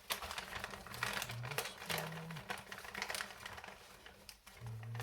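Rummaging through the kit's small parts and bags: irregular light clicks, taps and rustling.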